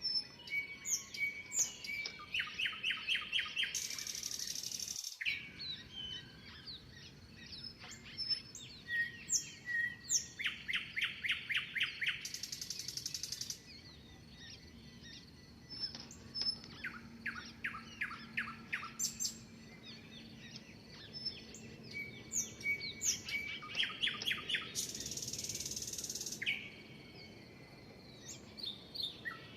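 Songbirds chirping and singing, with fast trills of evenly repeated notes several times over. Three high, hissing buzzes of about a second and a half each cut in, a few seconds in, near the middle and past two-thirds of the way through.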